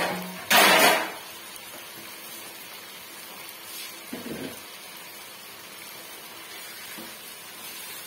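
A short, loud rush of noise about half a second in. After it, an onion and vegetable bhujiya frying quietly and steadily in oil in a non-stick wok.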